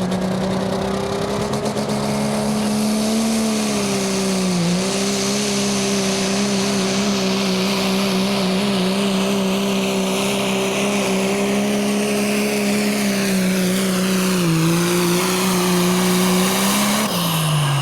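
Turbocharged diesel pickup truck engine held at high revs while pulling a sled, with a high turbo whistle that slowly falls in pitch. The engine note dips briefly twice, then drops away near the end as the throttle is let off.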